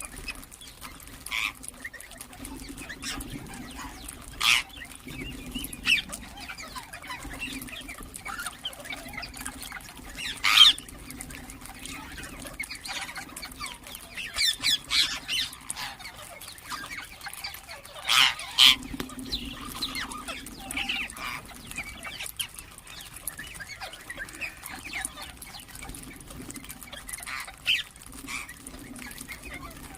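Ringneck parrots (rose-ringed parakeets) squawking in short, harsh, separate calls, a dozen or so spread unevenly, with the loudest around the middle. A low hum comes and goes underneath.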